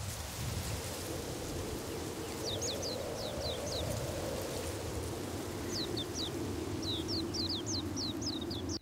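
Small birds chirping in two quick runs of short, high, falling notes, a couple of seconds apart, over a steady low hiss of countryside ambience.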